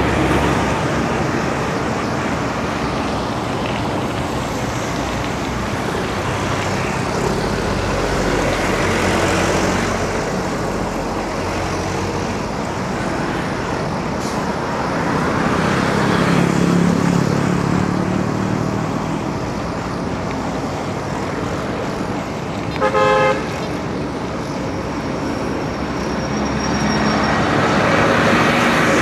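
Steady road traffic, with motor vehicles swelling louder and fading as they pass. A single short vehicle horn toot sounds about three-quarters of the way through.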